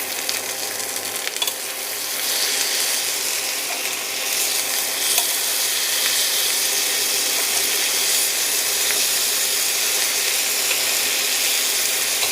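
Marinated chicken legs sizzling in butter and oil on a hot grill pan, a steady hiss that gets louder about two seconds in.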